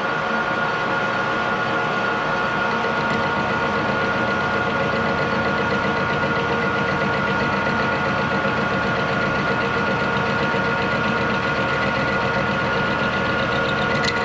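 Metal lathe running steadily, with a constant whine over an even machine hum.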